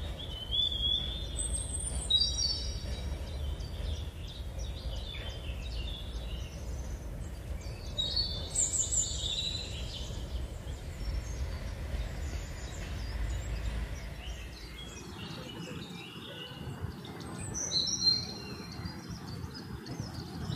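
Wild birds calling and chirping in the forest, in short groups of high whistled notes about a second in, around eight seconds in and again near the end, over a low background rumble that drops away about fifteen seconds in.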